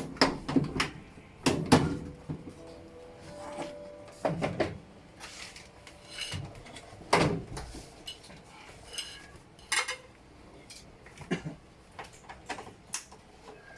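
Hard objects knocking and clinking together as they are handled, a dozen or so separate clatters with a brief ringing after some of them.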